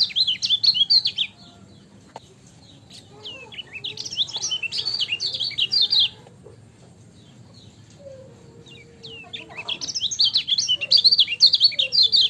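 Kecial kuning, a small white-eye, singing rapid high chattering bursts of 'ciak' notes: three bursts a few seconds apart. Fainter, lower calls of another bird come in the pauses.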